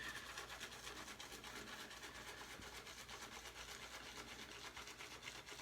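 Faint, rapid bristly rubbing of a synthetic shaving brush swirled against a puck of shave soap to load it.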